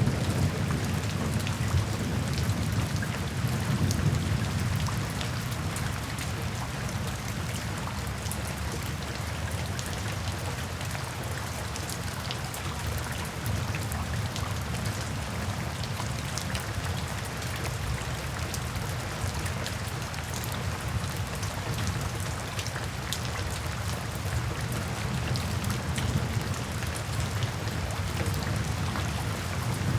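Steady rain with a dense patter of drops, and a low rumble of thunder that dies away over the first few seconds.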